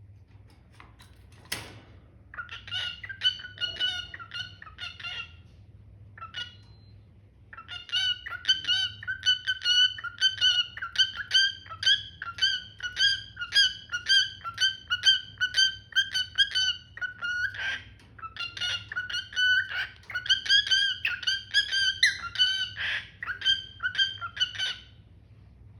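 Cockatiel calling in runs of repeated chirps, about two a second, with a short burst first and a long unbroken run after a pause. A single sharp click comes just before the calling starts.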